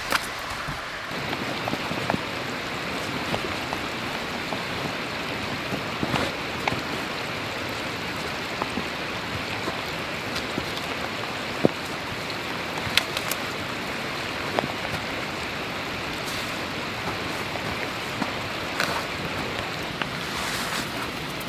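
Heavy rain falling steadily, with scattered louder drops tapping close by.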